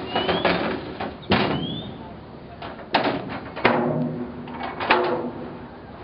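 Indistinct people's voices, several short loud calls in a row, each fading quickly.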